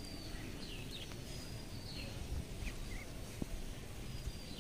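Several short, high chirps and whistles from small birds, some sliding in pitch, scattered over a steady low outdoor rumble.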